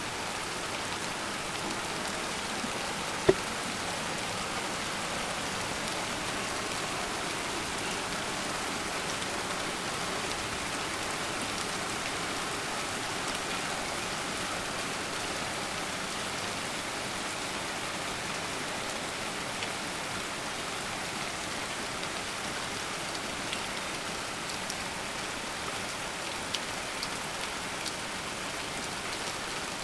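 Steady thunderstorm rain falling and pattering on surfaces, with individual drops ticking through it. A single sharp tap stands out about three seconds in, and a smaller one near the end.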